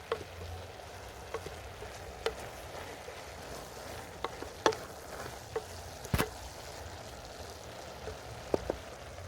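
Food frying in a pot: a steady sizzle with scattered sharp clicks and taps, the loudest about six seconds in.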